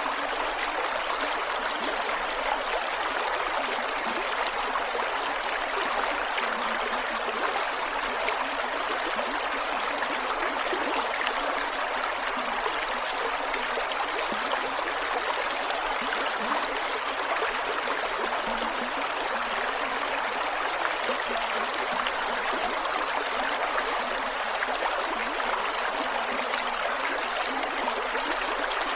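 Creek water flowing steadily over rocks, with trickling and gurgling.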